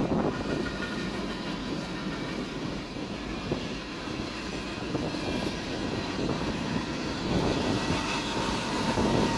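Steady rumble of a train running past a grade crossing, heard from inside a parked car, growing a little louder near the end.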